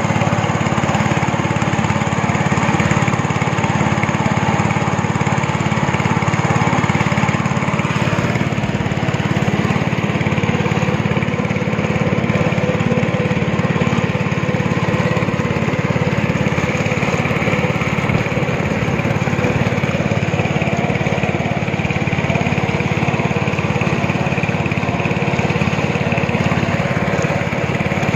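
Speedboat engine running steadily under way, at an even level with no breaks.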